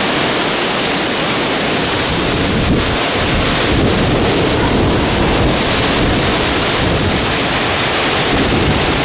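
Loud, steady rushing of wind buffeting the microphone, deepening into a low rumble from about three seconds in.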